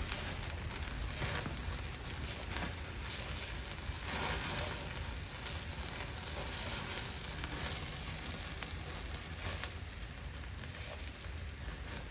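Horumon (offal) sizzling on a grill over a campfire: a steady hiss with frequent small crackles.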